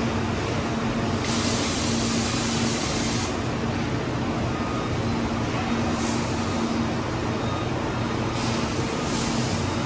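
Motor vehicle running steadily: a constant engine hum with road noise, and a spell of hiss about a second in, plus shorter ones later.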